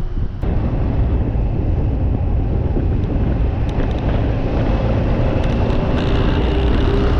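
Steady, loud vehicle running noise, heaviest in the low end with a faint steady hum over it; it steps up in level about half a second in.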